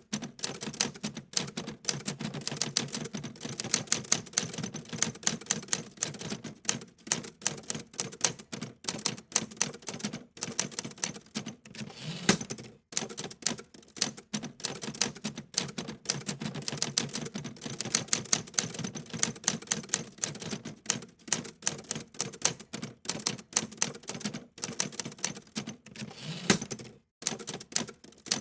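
Rapid, continuous typing clicks like a typewriter, many keystrokes a second, with a few brief pauses.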